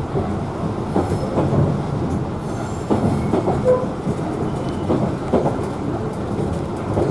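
Queensland Rail 2000 class diesel railcar running steadily along the line on a climb, with a continuous low rumble and the wheels knocking over rail joints about once a second.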